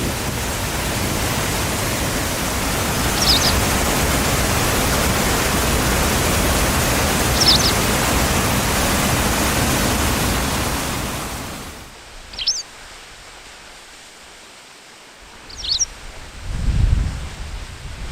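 A bird gives short, high chirps about every four seconds over a steady rushing noise. The noise stops abruptly about two-thirds of the way in. After that the chirps carry on against a quieter background, with low rumbles near the end.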